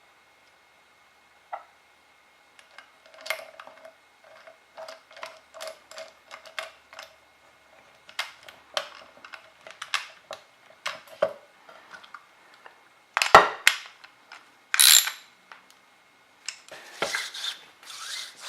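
Hand-handling of a paramotor's recoil pull-starter assembly: a run of small clicks and ratcheting rattles of plastic and metal parts, with two louder clacks past the middle and some scraping near the end.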